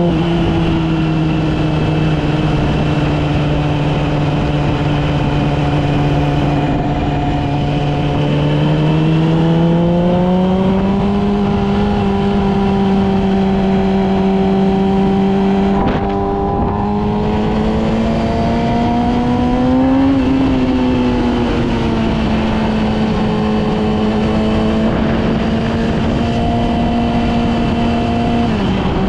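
Yamaha R6's inline-four engine running at a steady cruising pitch, climbing gradually about a third of the way in, easing off after the middle, with a brief sharp dip near the end.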